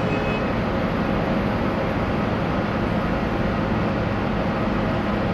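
Steady low hum and rumble of a Boeing 767-300ER jetliner on the ramp during pushback.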